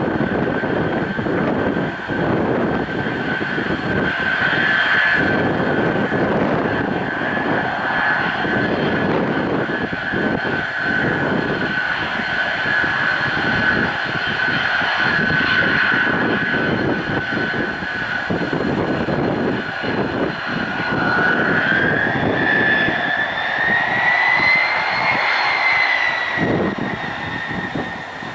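Tu-134UBL's twin Soloviev D-30 turbofans running with a steady jet whine over gusty wind noise. About three quarters of the way through, the whine climbs in pitch as the engines spool up.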